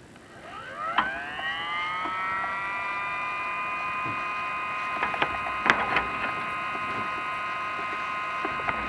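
A small electric motor spins up with a rising whine, then runs steadily at one pitch, with a few sharp clicks or knocks over the top.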